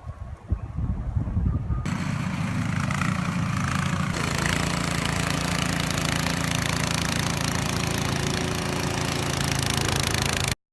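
Vehicle engine running steadily with a constant hiss over it, after about two seconds of low rumbling; the sound cuts off abruptly near the end.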